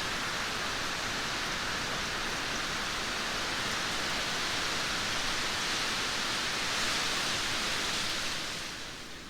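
Steady rain falling, a dense even hiss with no thunder, dropping in level near the end.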